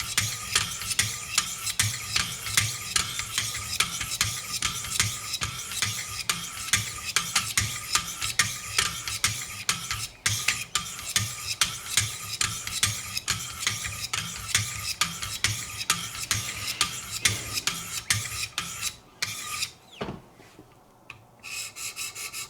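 Wicked Edge 400-grit diamond sharpening stones scraping along a knife's edge in quick repeated passes, about two strokes a second. The stroking stops about three seconds before the end.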